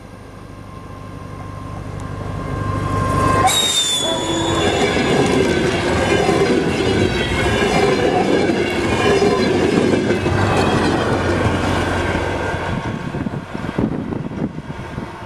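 A DR1A diesel multiple unit passing close at speed. Its engine drone grows as it approaches, then the wheels and carriages rush past with clattering and a high wheel squeal. The sound fades in the last couple of seconds.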